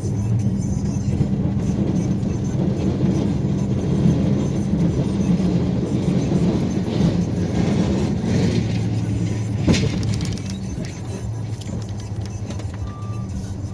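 Snowplow vehicle's engine running steadily, with a sharp knock about ten seconds in. A short repeated beep starts near the end.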